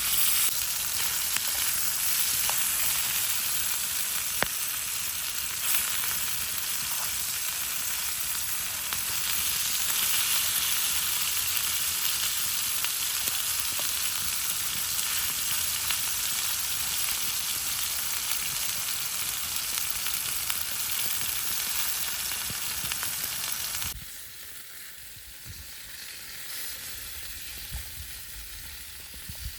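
Food sizzling and frying in a pan, a steady hiss with a few sharp pops; about 24 seconds in it suddenly becomes much quieter.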